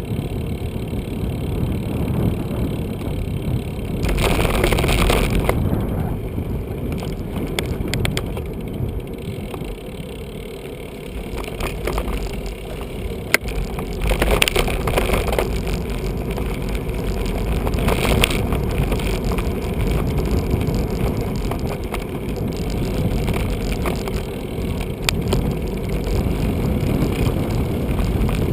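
Riding noise from a bicycle-mounted camera: wind rushing over the microphone and tyre rumble on the road, with louder stretches about four, fourteen and eighteen seconds in and one sharp click about halfway through.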